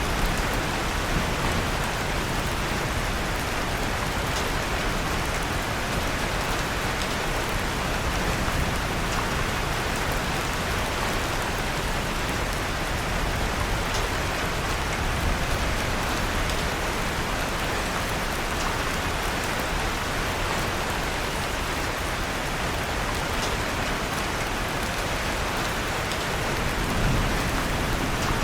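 Steady, even rain falling, with faint scattered crackles from a wood fire.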